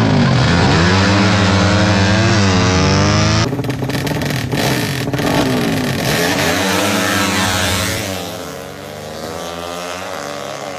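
Racing motorcycle engines revving hard, the pitch rising and falling again and again. The sound changes abruptly about three and a half seconds in, like a cut to another bike, and gets quieter near the end.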